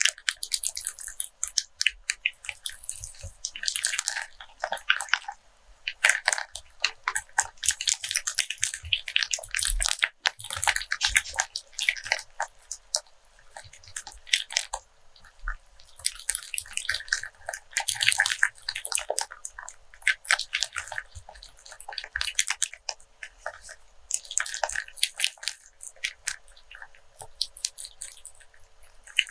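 Rope handled and rubbed close to a sensitive microphone: dense crackling and scratching fibre sounds in repeated bursts with short pauses between them.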